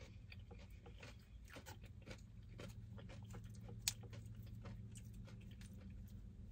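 A person chewing mouthfuls of a burrito bowl close to the microphone: faint, irregular mouth clicks with one sharper click near the middle, over a low steady hum.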